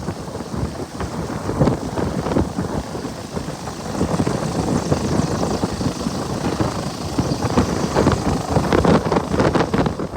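Wind buffeting the microphone: a rough, uneven rumble with irregular gusts.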